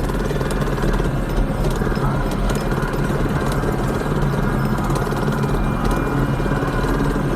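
Mini bike engine running steadily.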